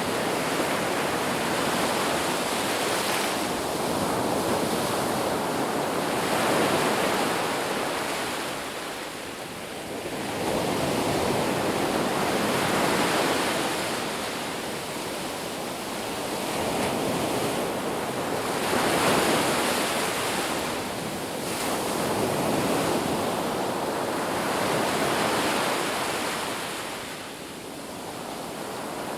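Ocean surf breaking on a beach: a continuous wash of waves that swells and recedes every five or six seconds.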